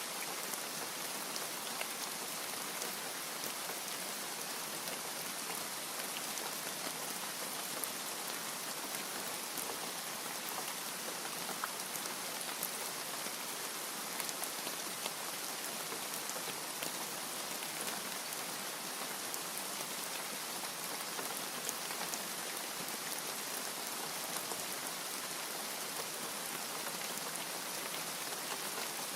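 Steady rain falling, an even hiss with fine drop ticks throughout and no thunder.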